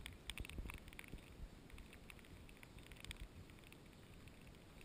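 Faint, irregular taps of raindrops hitting the camera housing, with some low wind rumble on the microphone.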